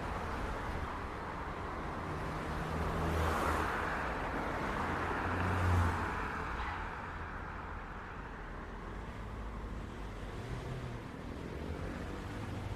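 City street traffic: a steady wash of cars and engines, with a louder vehicle passing about three seconds in and another, the loudest moment, about six seconds in.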